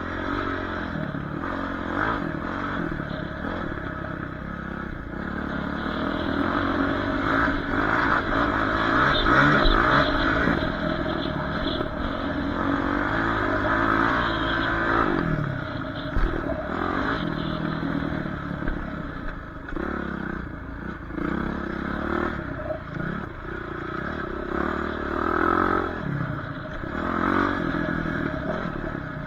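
Dirt bike engine revving up and falling back again and again as the bike is ridden around a track, with a rattling clatter underneath.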